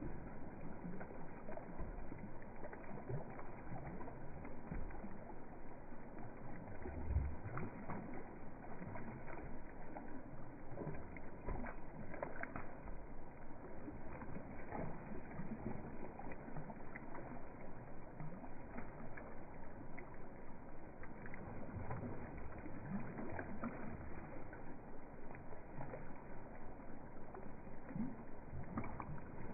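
Water lapping and splashing as ducks swim and paddle, a steady wash with many small clicks and a brief louder splash about seven seconds in.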